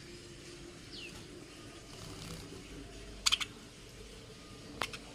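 Small pet birds: one short downward chirp about a second in, then a quick cluster of sharp clicks a little past the middle and a single click near the end, over a faint steady hiss.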